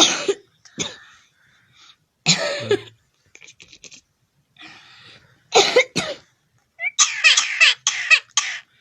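A series of five or six short, harsh coughs with pauses between them.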